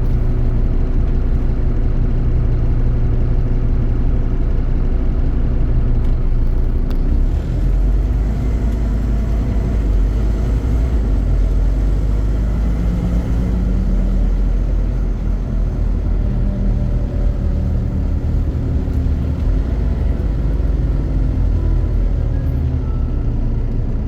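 Scania CN270UB city bus's five-cylinder diesel engine running steadily, its pitch shifting a few times as the engine speed changes.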